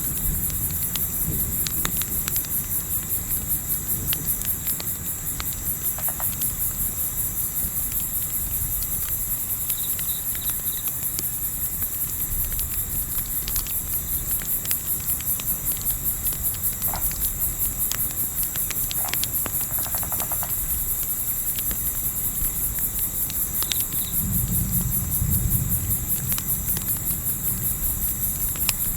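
A dense, steady, high-pitched chorus of night insects chirping in rapid pulses. Underneath is a low rumble that swells about 24 seconds in, with faint scattered crackles of a campfire.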